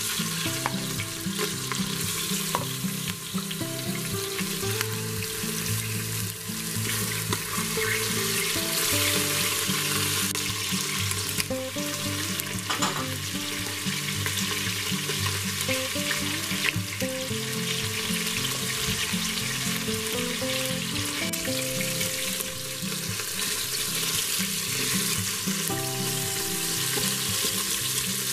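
Chicken drumsticks and chopped onion sizzling as they sear in hot oil in an Instant Pot's stainless steel inner pot on the sauté setting, with a steady frying hiss. Tongs turn the pieces and a spatula stirs them in the pot.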